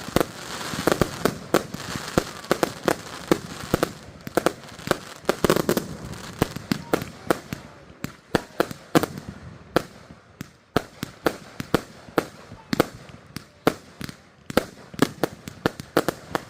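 Fireworks going off in a rapid volley of sharp bangs and crackles. The bangs are densest in the first few seconds, then thin to irregular pops several times a second.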